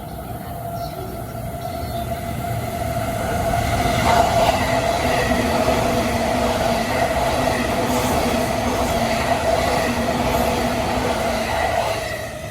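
Electric train running through the station at speed: the noise builds over the first few seconds, stays loud for about eight seconds as the cars go by, and falls away quickly near the end.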